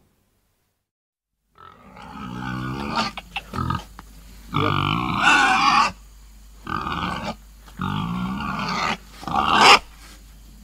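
Pig grunting and squealing in a series of about six rough calls, each up to about a second long, starting about a second and a half in.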